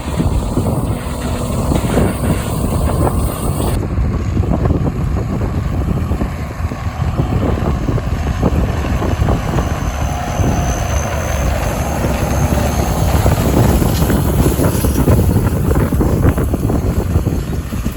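Tractor and baler machinery running steadily in the field, with wind buffeting the microphone.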